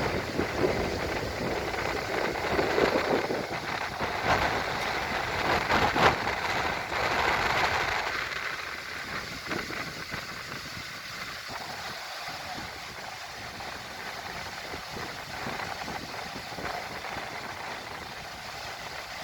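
Diesel engines of a concrete pump truck and cement mixer truck running steadily while concrete is pumped. The sound is louder for the first eight seconds or so, then settles lower, with a few sharp knocks.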